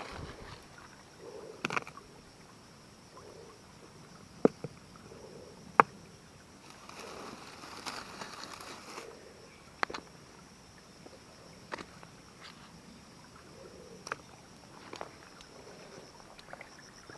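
Scattered sharp clicks and knocks at irregular intervals, with a brief stretch of rustling in the middle, over a steady high-pitched insect drone.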